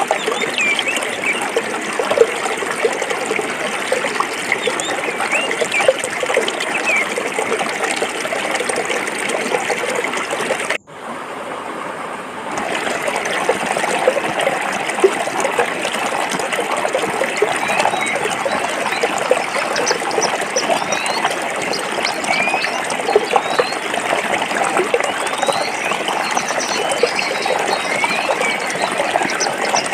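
Stream water running and splashing over rocks, a steady full rush with small gurgles throughout. About a third of the way in it cuts out for an instant and returns dulled for a second or two before the full sound comes back.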